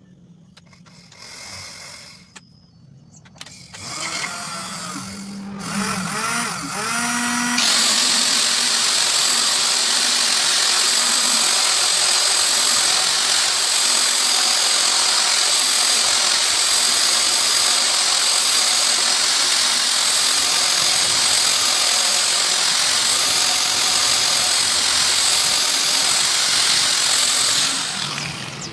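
Homemade drill driven by a sewing-machine motor speeding up, its pitch rising in a few steps, then running loud and steady for about twenty seconds before it stops near the end.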